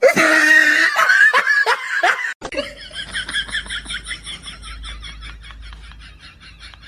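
A person laughing hard in repeated bursts, cut off abruptly about two seconds in. A softer, quick rhythmic pulsing sound follows, about four pulses a second, gradually fading.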